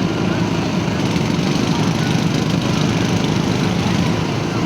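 Truck engine running steadily, a dense, even low drone with no change in speed.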